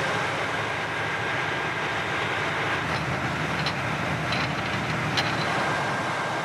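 Boat engine running steadily in its engine room, a dense mechanical din, with a few light clicks in the second half.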